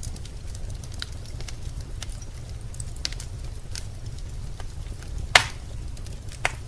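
Wood fire burning in a fireplace: a low steady rumble of flame with scattered crackles, and one loud pop about five seconds in followed by a smaller one a second later.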